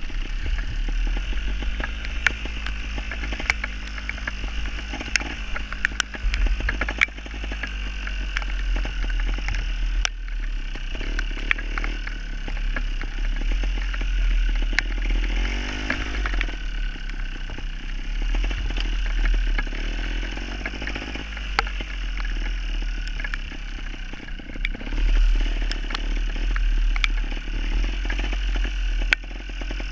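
Gas Gas TXT270 two-stroke trials motorcycle engine being ridden, its pitch rising and falling again and again as the throttle is blipped and eased, with sharp clicks and knocks throughout.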